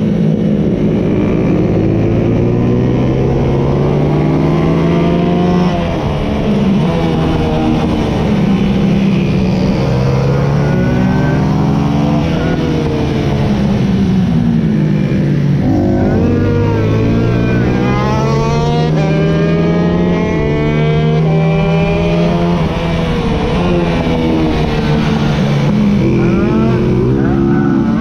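125 cc racing motorcycle engines at full race pace, heard from on board: the pitch climbs steadily through the revs and drops back again and again as the bike accelerates, shifts and brakes into corners, with other bikes close by.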